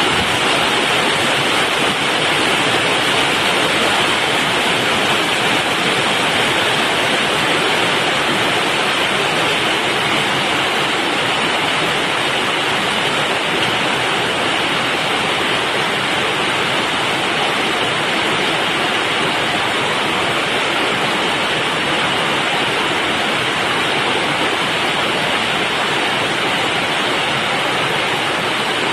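Heavy rain from a summer thunderstorm, a steady dense rush.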